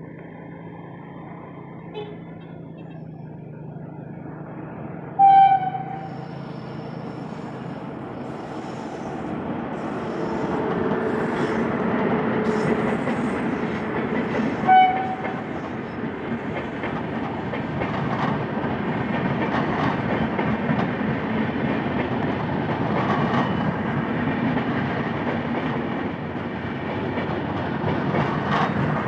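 Passenger train hauled by an electric locomotive rolling past on the rails, its wheel noise and clatter growing louder after about ten seconds. The locomotive horn sounds two short blasts, about five seconds in and again about fifteen seconds in.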